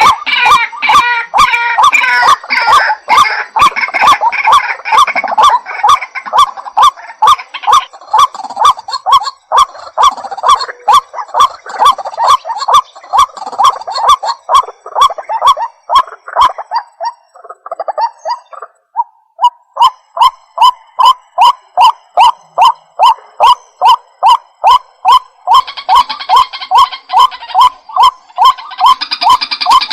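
White-breasted waterhen calling: a long, even series of repeated call notes, a little over two a second, with busier, overlapping calling at the start and near the end and a short pause a little past halfway.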